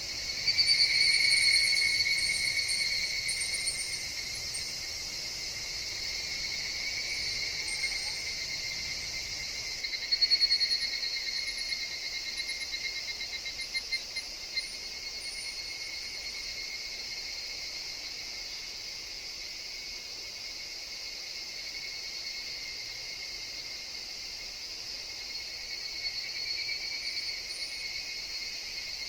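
Higurashi (evening cicadas) calling: a loud rippling trill swells about half a second in and fades over a few seconds, another comes about ten seconds in, and a softer one near the end, over a steady high hiss of insects.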